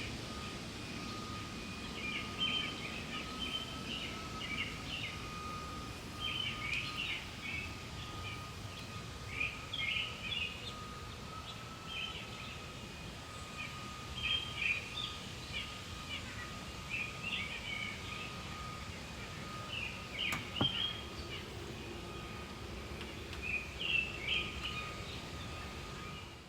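Several birds chirping in short, repeated bursts over a steady outdoor background, with a faint steady high tone running underneath.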